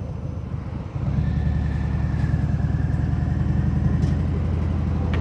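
Harley-Davidson Fat Bob's V-twin engine running through Vance & Hines Hi-Output slip-on mufflers with no quiet inserts, heard from inside the rider's helmet; the exhaust gets louder about a second in and then runs steadily.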